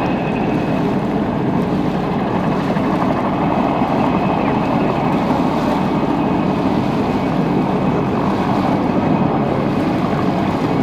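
PZL Kania twin-turbine light helicopter running steadily in flight, its turbine and rotor noise blended with wind on the microphone.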